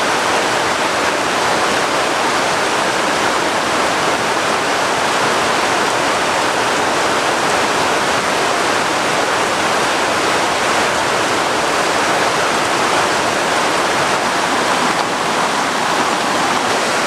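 Steady, loud rushing of water, unbroken throughout.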